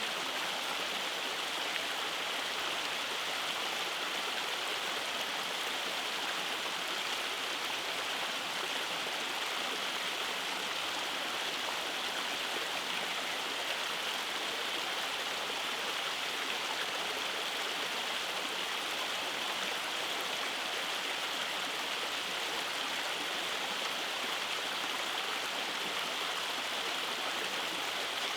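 Rainforest stream running over cascades: a steady rush of flowing water.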